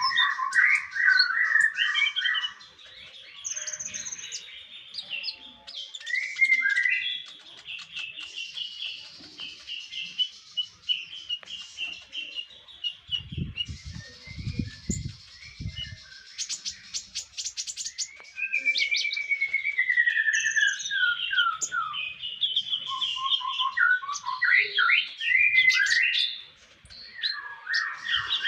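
Konin songbird singing a varied, fast song of repeated chirps, trills and sliding notes, a masteran recording used to tutor cage birds. A few low thumps come in about halfway through.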